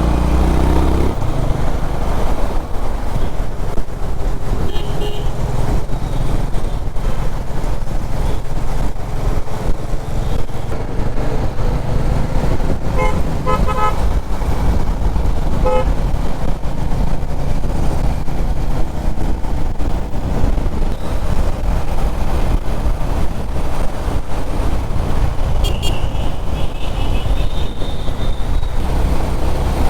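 Riding a Honda CB350RS motorcycle through city traffic: steady engine and wind rumble. A quick series of short vehicle-horn toots comes about halfway through, and a higher horn tone sounds near the end.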